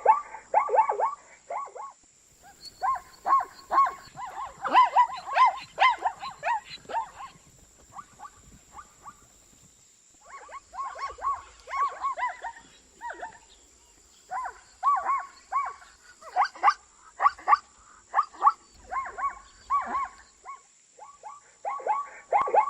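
Zebra calling: a rapid series of short, barking yelps, about four or five a second, in several bouts with pauses of a second or more between them.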